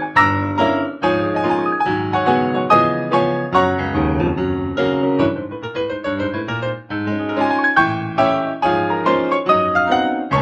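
Solo piano playing a flowing prelude of many notes and chords.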